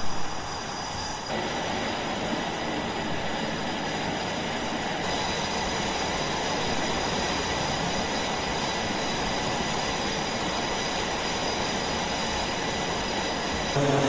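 Jet aircraft engines running on a carrier flight deck: a steady rushing noise with several high, steady whining tones over it.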